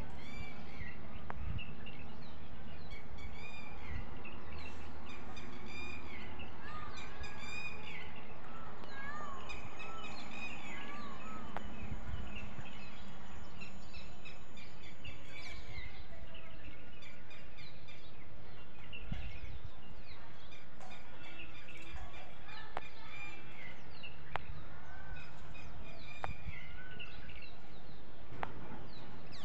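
Birds chirping and calling in short repeated notes over a steady low background rumble, busiest in the first half.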